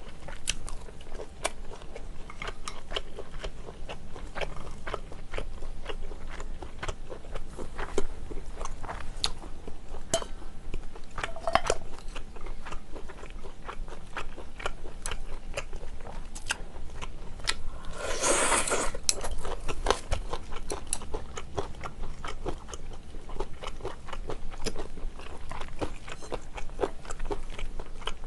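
Close-up eating sounds: chewing and crunching mouthfuls of stir-fried yakisoba noodles and kimchi, many short wet clicks and crunches. About 18 seconds in, a louder rush lasting about a second, like a slurp of noodles.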